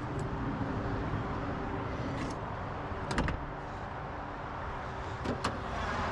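Minivan on the move: steady engine and road noise, with sharp clicks about three seconds in and twice more a little after five seconds.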